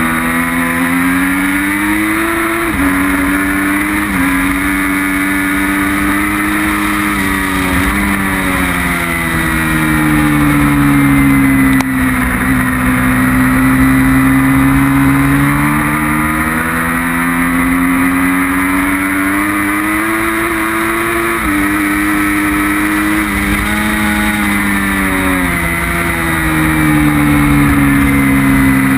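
Sport motorcycle engine at racing speed, heard from on board over a steady rush of wind and road noise. Its pitch climbs through the gears with a quick drop at each of several upshifts, and falls away smoothly twice as the bike slows for corners.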